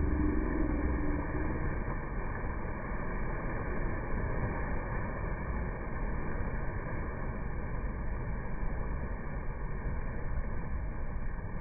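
Steady rush of falling water from a small waterfall, an even noise with no rhythm; a short low tone fades out in the first second or so.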